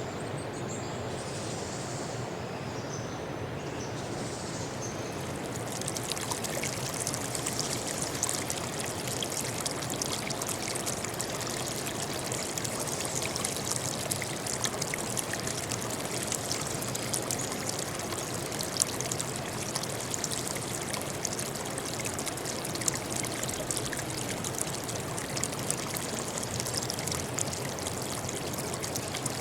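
A stream trickling and babbling over stones, with a few high bird chirps in the first few seconds. About six seconds in, the water grows louder and splashier, full of small crackling drips.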